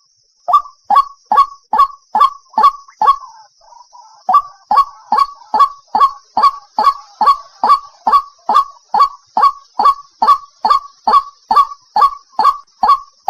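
White-breasted waterhen calling, a loud, short falling note repeated about two and a half times a second, with a brief break of softer chatter about three seconds in.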